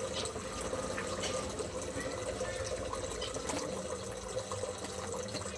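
Running water trickling steadily under a steady hum, with a few short high chirps from small aviary birds.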